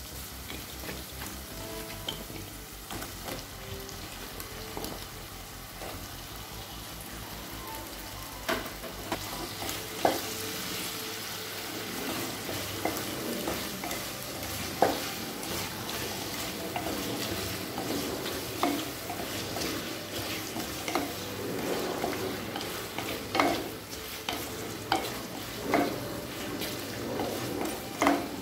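Potato cubes frying in oil and onion-tomato masala in a kadai, stirred with a spatula: a steady sizzle with the spatula knocking and scraping against the pan now and then.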